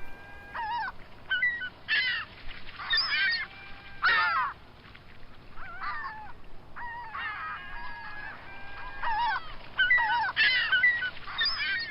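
Gulls calling, many short calls that rise and fall in pitch and overlap one another.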